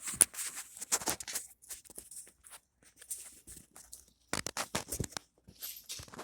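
Handling noise: irregular clicks and short knocks of tools being picked up and moved about.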